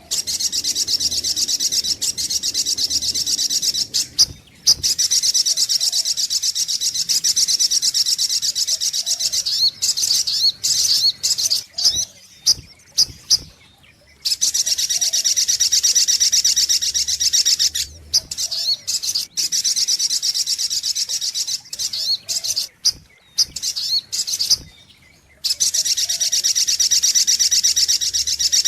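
Sogok ontong (spiderhunter) call: a high, very fast trill of rapidly repeated notes. It comes in long runs of several seconds, with brief broken stretches and short pauses between them.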